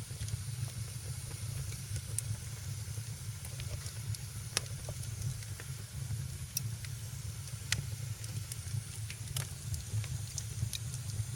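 Fire in a fireplace crackling: sharp pops every second or two over a steady low rumble and a soft hiss.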